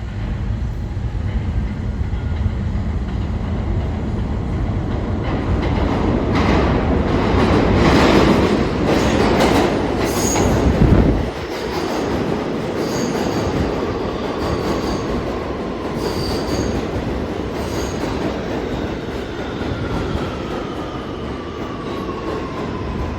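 R211T subway train pulling into the station: a rumble builds to a peak about halfway through, then drops off sharply. Short high wheel squeals follow, and near the end a whine falls steadily in pitch as the train slows.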